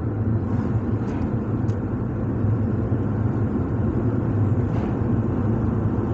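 Car driving along a road, heard from inside the cabin: a steady low rumble of engine and tyres with a few faint ticks.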